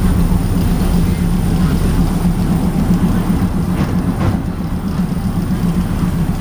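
Diesel train running: a steady low engine drone over a continuous rumble.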